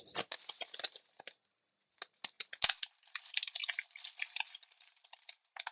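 Small metal CNC tooling and its case being handled: a run of light clicks and rattles, with a brief lull and one sharper click a little before halfway.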